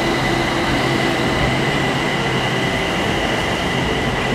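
BTS Skytrain electric train running: steady running noise with a high, steady whine over it.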